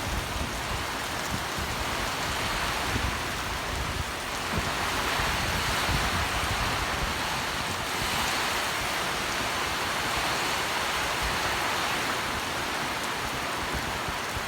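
Heavy rain pouring down, a steady dense hiss that gets a little louder partway through.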